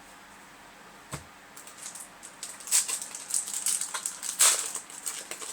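Crinkling and rustling of a foil trading-card booster pack being handled and torn open, in quick irregular crackles starting about a second and a half in, after a single click.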